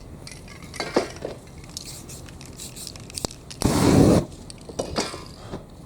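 A spray-paint artist handling cans and tools: scattered clicks, knocks and clinks, with one loud rush of noise lasting about half a second, about four seconds in.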